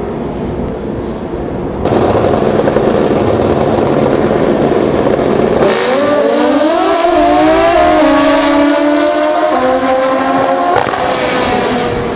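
Pro Street drag-racing motorcycle at full throttle. A few seconds of steady loud noise come first. Then the engine pitch climbs hard, dropping back in steps at each gear shift, before the sound fades off down the track.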